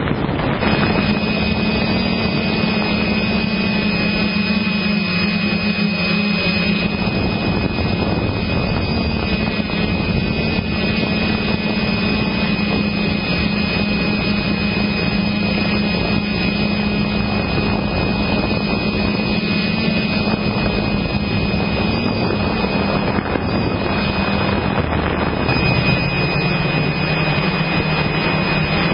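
Motocross bike engine running at a steady, held pitch under a heavy rushing noise, its note shifting near the end.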